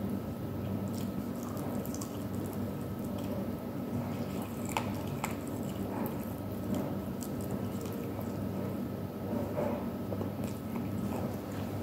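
Close-up eating of a grilled chicken wing: biting and chewing, with small wet clicks and smacks scattered throughout, over a steady low hum.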